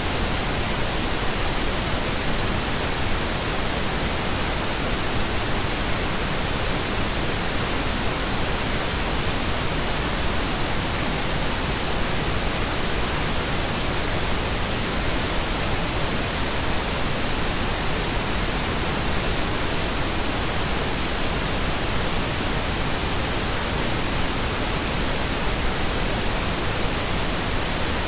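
Steady pink noise: an even, unchanging hiss across all pitches, without any rhythm or change.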